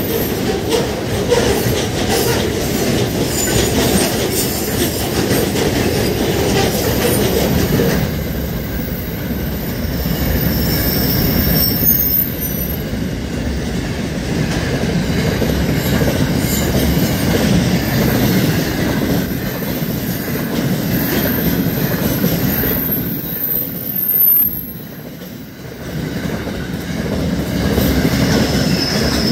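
Freight train wagons rolling past on the rails: a steady rumble and clatter of wheels with a thin, high-pitched wheel squeal now and then.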